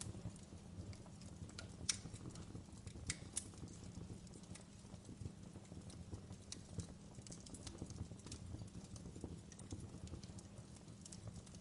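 Wood fire burning in a fireplace: irregular sharp crackles and pops over a low steady rumble, with the loudest pops about two and three seconds in.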